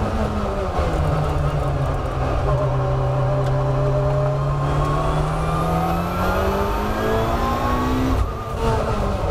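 Race car engine heard from the cockpit in third gear. The revs fall as the car brakes and slows for a corner, then climb steadily under full throttle towards about 8,000 rpm. Near the end the note breaks off sharply as the throttle is lifted.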